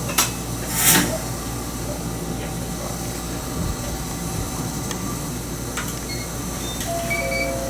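Steady low hum inside a Toyama Chiho Railway 20020 series electric train, with two sharp knocks in the first second, the second one louder.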